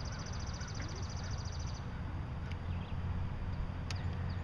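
A small bird's rapid, high trill of evenly spaced notes, lasting about two seconds. It sounds over a low, steady outdoor rumble that grows a little stronger past the middle, with a single click near the end.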